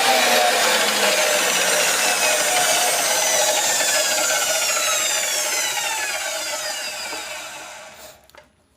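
Low-wattage electric cut-off machine's motor and disc winding down, the whine falling steadily in pitch and fading until it stops about eight seconds in.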